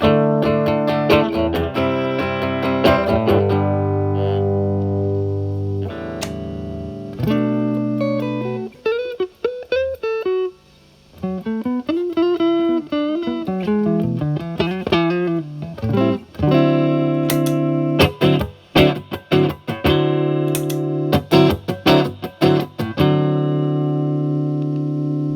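Fender Stratocaster with single-coil alnico pickups, played through a Paul Cochrane Timmy overdrive at minimum gain into a Marshall Valvestate's clean channel, giving a nearly clean tone. Ringing chords come first, then a stretch of single-note phrases in the middle, then choppy strummed chords near the end.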